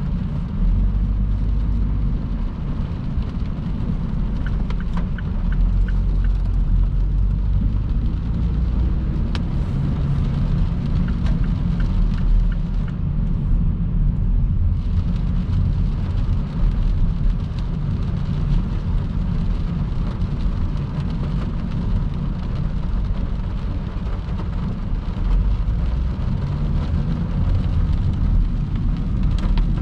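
Car driving at motorway speed in heavy rain: a steady low rumble of road and tyre noise under the hiss of rain, with a few sharp ticks of drops striking.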